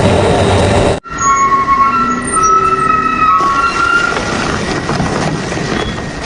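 Industrial double-shaft shredder grinding scrap metal. After an abrupt cut about a second in, high metal-on-metal squealing rings out for a few seconds over the grinding, then the grinding goes on.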